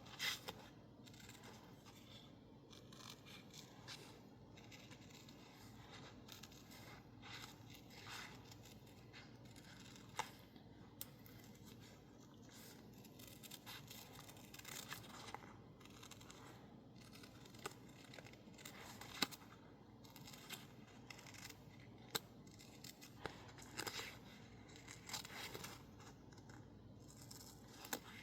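Scissors cutting stickers out of label paper: quiet, irregular snips and paper rustle, with a few sharper clicks of the blades scattered through.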